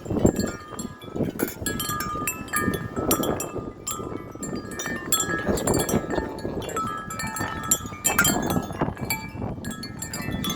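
Several sets of metal wind chimes ring and clang rapidly and continuously as they are thrown about by extremely strong gusting wind, with many overlapping ringing tones. Under the chimes is a loud, low rushing of wind on the microphone.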